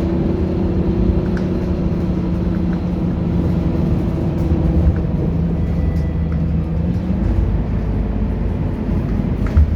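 Scania K230UB city bus's diesel engine running steadily, its engine note changing about seven seconds in as the steady tone drops away and a deeper rumble takes over.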